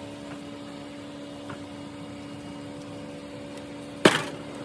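A steady low hum with a fainter higher overtone, broken near the end by one sharp, loud knock.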